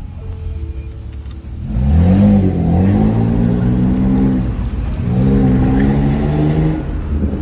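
BMW E60 525i's inline-six engine pulling from a low idle, heard from inside the cabin: it rises sharply in pitch about two seconds in and holds, eases off, then pulls again about five seconds in before dropping back near the end.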